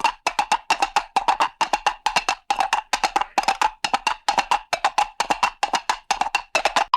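Hanna-Barbera cartoon sound effect: a rapid run of sharp, hollow wood-block knocks, several a second in uneven clusters of two or three, breaking off at the very end.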